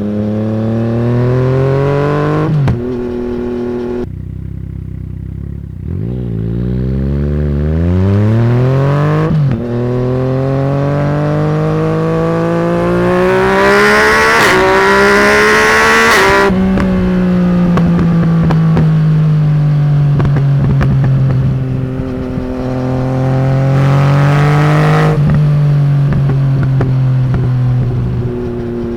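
Yamaha MT-09's three-cylinder engine through a de-catted straight-pipe exhaust, accelerating hard through the gears. The revs climb and fall back at each shift, with the longest, highest pull about halfway through. Then the throttle closes and the engine runs on at lower, slowly falling revs, with a spatter of pops from the exhaust as it backs off.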